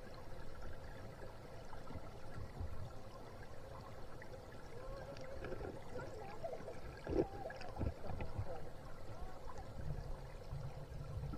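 Water flowing and gurgling, with faint wavering voices in the background.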